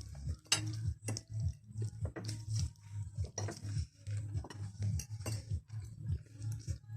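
Eating sounds close to the microphone: repeated chewing with short clicks and clinks of cutlery against dishes.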